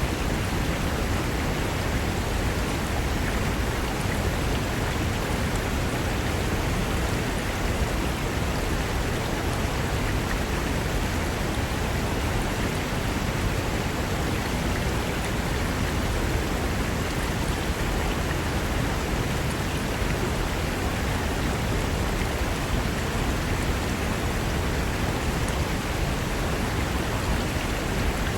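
Mountain river rushing over rocks, a steady, full rush of water with no change in level.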